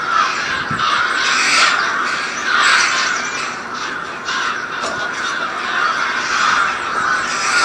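A large flock of crows cawing all at once, a dense unbroken chorus of caws.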